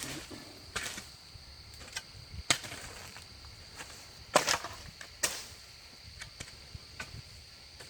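A few sharp knocks and scuffs of a wooden top-bar beehive being handled and set down, spread across several seconds, over a faint steady high chirring of night insects.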